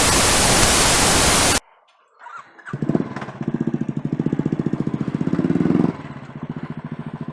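A loud burst of hiss like static for about a second and a half, cut off sharply, then a motorcycle engine running with a rapid, even beat. The engine grows louder and drops back to a lower level about six seconds in.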